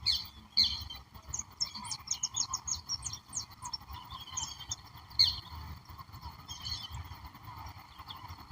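Wild birds calling: sharp, high, downward-sweeping calls near the start and again about five seconds in, with a quick run of short high chirps between them. Under them runs a steady background din and low rumbling noise.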